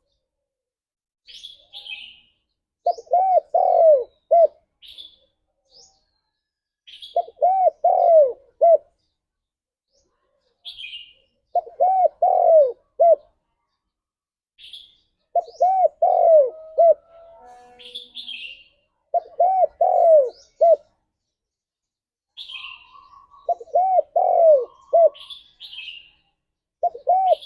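Spotted dove (tekukur) cooing its song, a cluster of three or four coos repeated about every four seconds. Short high chirps come between the phrases.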